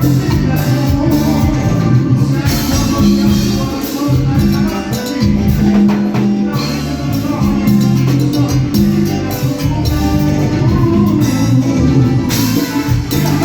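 A live band playing Latin tropical dance music, with a heavy bass line and steady percussion, captured as room sound.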